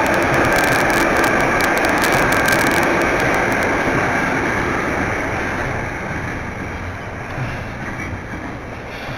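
Container freight train rolling past, its wagon wheels running loudly on the rails with a thin wheel squeal and a run of sharp clicks over the first few seconds. The noise slowly eases as the last wagons go by.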